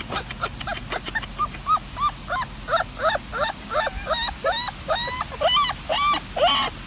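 Dog giving a quick run of short, high, whimpering yips, about three a second, after a few sharp clicks at the start.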